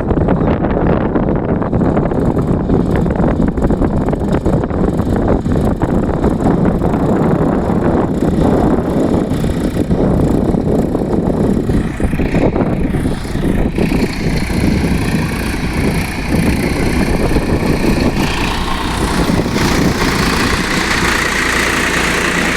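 Swaraj 742 XT tractor's diesel engine running steadily while driving a rotavator. About twelve seconds in a higher whine joins the engine noise and grows stronger near the end.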